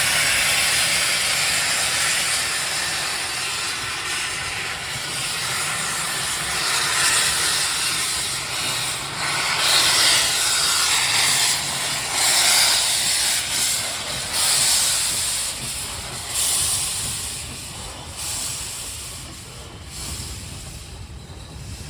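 Steam locomotive No. 65, built in 1896, hissing steam, with louder surges in the middle before the hiss eases off near the end.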